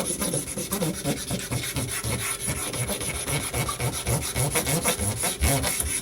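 A cleaning stone rubbed quickly back and forth over a wet 8000-grit whetstone, one rasping scrape after another, flattening and cleaning the whetstone's face.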